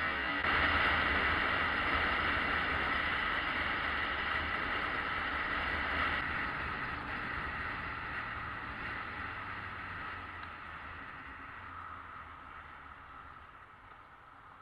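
Riding noise of a motorcycle, wind rush with the engine running underneath, fading steadily toward the end.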